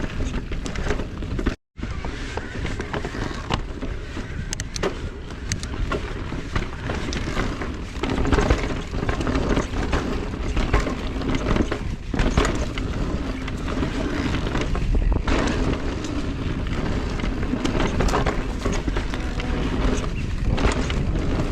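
Mountain e-bike rolling over rough ground: steady tyre and wind rumble with frequent sharp rattles and knocks. The sound cuts out completely for a moment about a second and a half in.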